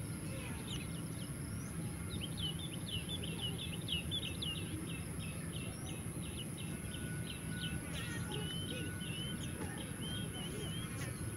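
A small songbird singing a long string of short, repeated high notes, about three a second, breaking into a quicker warbling phrase near the end, over a steady low outdoor rumble.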